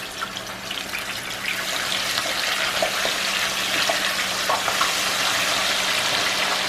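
Chicken pieces deep-frying in hot oil: a steady sizzle with scattered crackles and pops, growing slightly louder.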